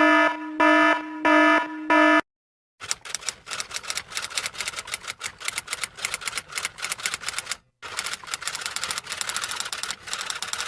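A buzzer-like electronic beep sounds about four times in quick succession, then after a short gap comes a fast, dense run of clicking, like typewriter keys, that pauses briefly near the end and carries on.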